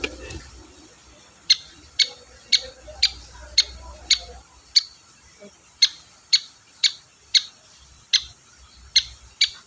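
Long-tailed shrike (cendet) giving a run of short, sharp calls, about two a second, starting about a second and a half in. There is a brief knock at the very start.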